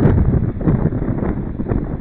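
Strong, gusty wind buffeting the outdoor nest-cam microphone: a loud, low, rumbling rush that swells and eases with the gusts.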